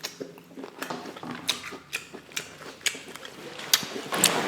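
Close-miked eating sounds of lobster tail: irregular sharp clicks and wet crackles of chewing, with a short breathy noise near the end.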